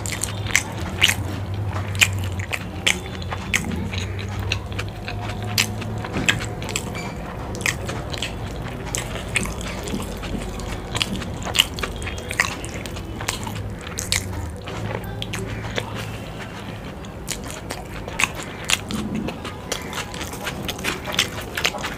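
A person chewing saucy chilli momos (dumplings) close to the microphone, with many sharp, irregular wet mouth clicks.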